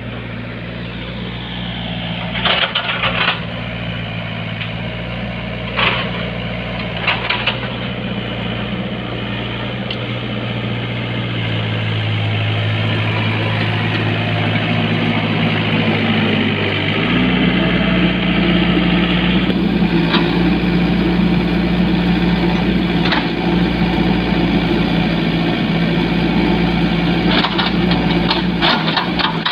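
An engine running steadily, its speed stepping up a little past halfway and holding there, with a few short sharp knocks or clanks scattered through.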